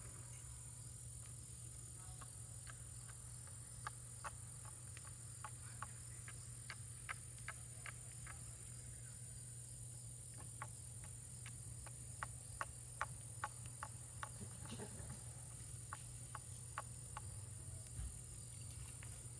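Faint campfire crackling, with irregular sharp pops and snaps from the burning wood, over a steady high insect drone.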